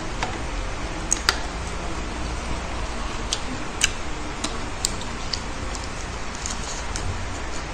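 Crisp crunches and mouth clicks from chewing lettuce leaves, a few sharp snaps scattered through the first half or so, over a steady low hum and hiss.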